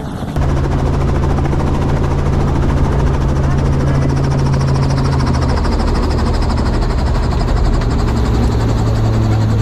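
Helicopter in flight: a loud, steady engine and rotor drone with a low hum that cuts in suddenly just after the start and steps slightly lower in pitch about halfway through.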